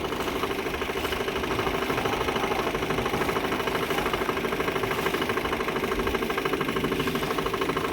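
A boat's engine running steadily, with a fast, even chugging.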